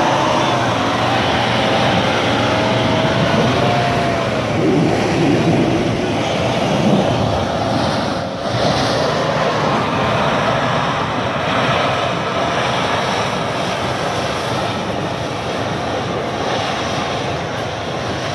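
Off-road 4x4 engine working hard under throttle, its pitch rising and falling as it is revved, over a steady wash of noise; it eases off briefly about eight seconds in.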